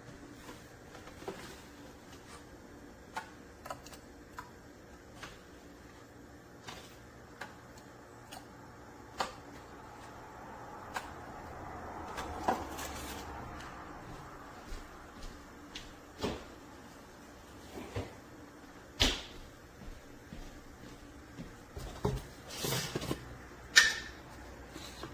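Scattered light clicks and knocks at irregular intervals, with a few louder ones near the end: objects being handled, with no motor running.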